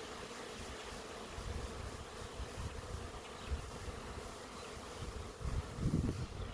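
Swarm of honey bees in flight: a steady buzzing hum of many bees at once around the clustering swarm, with a low rumble of wind on the microphone that swells a little before the end.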